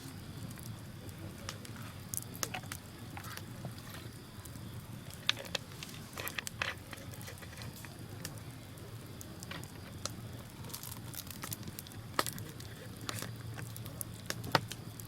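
Wood bonfire burning, with irregular sharp crackles and pops over a low steady rumble; the loudest pops come about five seconds in, about twelve seconds in and near the end.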